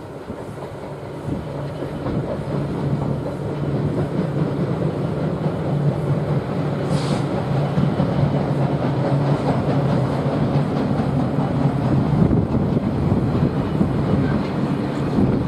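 Freight train crossing a girder bridge: the locomotive's low, steady engine hum over the rumble and clatter of its wagons, growing gradually louder.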